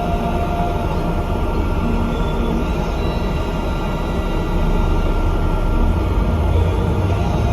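Bus under way: a steady low engine drone and rumble with a few faint steady whines, growing a little louder about halfway through.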